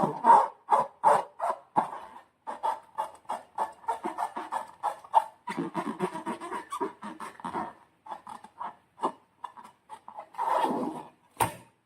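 Slime being squished and worked by hand: a rapid, irregular run of wet clicks and squelches, with a sharp snap near the end.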